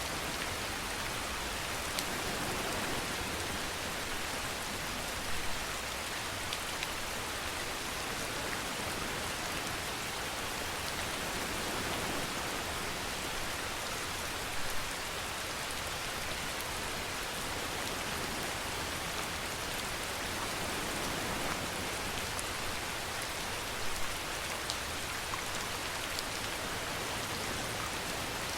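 Steady rainfall, a dense even hiss with scattered individual drop ticks and a few slightly louder spatters.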